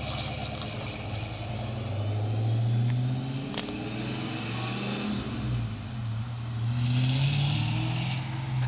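1990 Ford Mustang's 5.0 V8 running through shorty headers, an X-pipe and Flowmaster 10 mufflers, a deep exhaust note that rises in pitch twice, about two seconds in and again near the end, then falls back.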